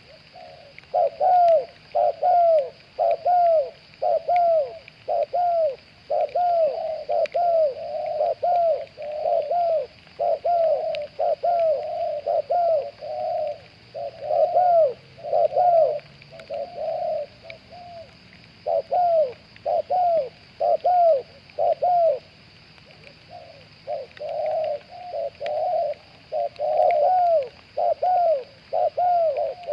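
Spotted doves cooing: long runs of short, downward-arching coo notes, about two a second, broken by a few short pauses.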